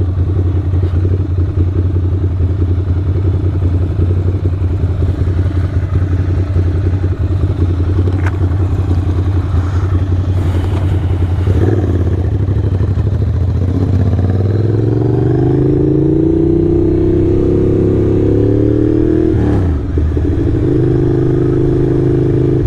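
Ducati L-twin motorcycle engine running on the road from the rider's point of view, steady at first. About two-thirds of the way in its pitch climbs as the bike accelerates, drops sharply for a moment, then holds steady again.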